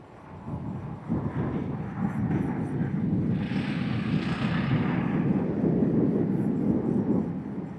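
Wind rushing and buffeting over the microphone while an electric bike is ridden uphill. It builds up about a second in, grows hissier in the middle and drops away near the end.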